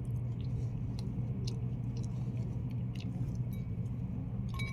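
Someone chewing while eating balot, with scattered small clicks, over a steady low hum.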